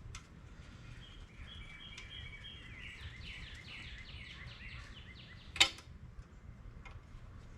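A bird chirping: a quick run of short, falling chirps for a few seconds. Then a single sharp knock about three-quarters of the way in, the loudest sound, over a low outdoor rumble.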